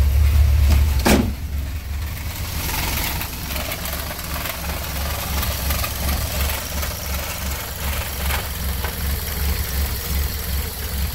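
Toyota 4A-GE 16-valve four-cylinder with individual throttle bodies, HKS cams and sequential injection and ignition, idling steadily with an even low throb. A short falling squeak is heard about a second in.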